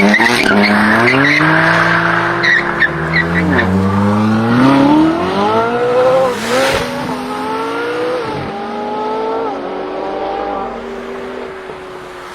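A BMW performance car's engine accelerating hard through the gears. The pitch climbs and drops sharply at each upshift, about four times, and a few short crackles come about two to three seconds in. The sound then levels off and fades as the car pulls away.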